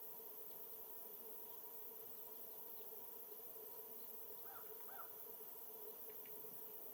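Faint bird calls: two short notes about four and a half seconds in, followed by a few fainter high chirps, over a steady hum and hiss.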